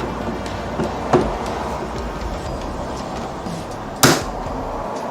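Two hammer blows on the steel yoke and bearing caps of a driveshaft U-joint being fitted: a lighter knock about a second in, then a sharp, hard strike near the end.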